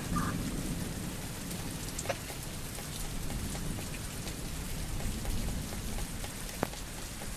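Steady rain falling during a thunderstorm, with scattered sharp drop taps and a low rumble underneath.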